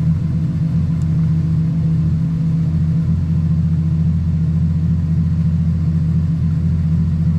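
Ferrari FF's V12 idling steadily with an even low hum, heard from inside the cabin. It is warming up at idle so the oil level can be checked after an oil change.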